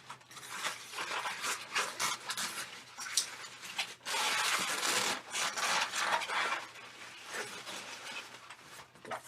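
Inflated latex 260 balloons rubbing and squeaking against each other as a braided balloon end is looped over and twisted into place. The rubbing is irregular, with a longer, louder stretch about four seconds in.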